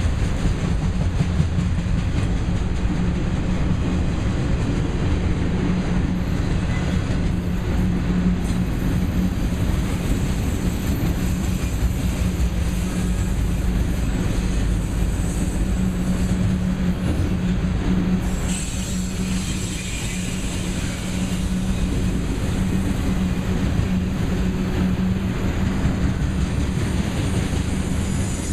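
Union Pacific freight train's auto-rack cars rolling past, with a steady rumble of steel wheels on the rails. A thin high-pitched wheel squeal comes and goes and grows stronger in the second half.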